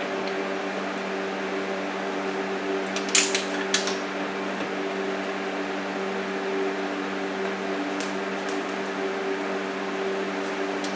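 A steady mechanical hum runs throughout. A few sharp metallic clinks come about three seconds in, and a faint one later, as the mount's bolts and nylon lock nuts are handled and fitted.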